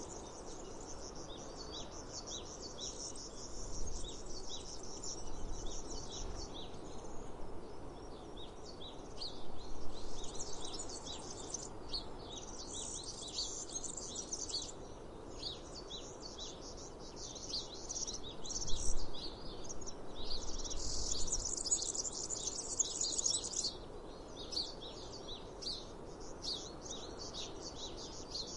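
Many small birds chirping in a dense, continuous chatter over a steady open-air background hiss, with a few soft low thumps.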